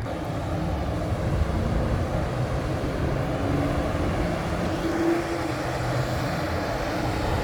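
Steady low engine-like rumble with a faint hum, a little stronger about five seconds in.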